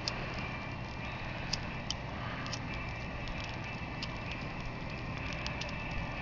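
Freshly lit campfire kindling crackling, with scattered sharp pops over a steady rumble of wind on the microphone.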